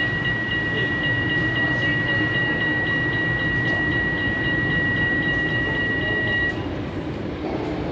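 A tram running with a low rumble and a steady high-pitched tone that cuts off about six and a half seconds in.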